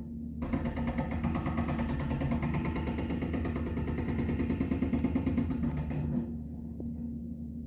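A motor running with a steady hum. About half a second in, a much louder, rapid rattling machine sound starts and runs until about six seconds in, then cuts off, leaving the hum.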